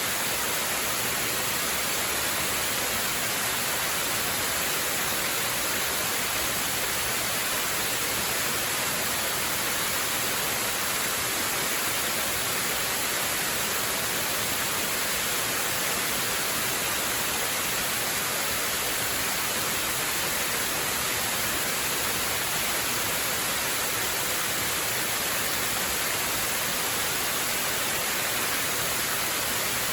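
Waterfall: water falling steadily, a constant even rush without change.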